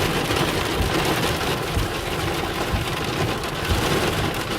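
Heavy rain pelting a van's body, heard from inside, with strong wind gusts buffeting and shaking the van as irregular low rumbles and thuds.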